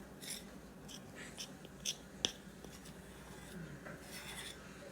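Faint rustling and a few light clicks from hands working a powdered-sugar dough on parchment paper, with one sharper click about two seconds in.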